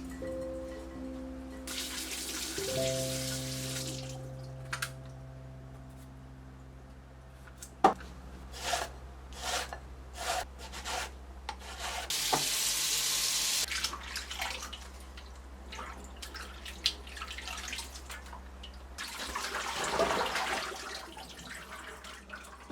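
A kitchen tap runs in three short spells, with light clicks and knocks of handling in between. Soft background music with long held notes plays under it in the first half.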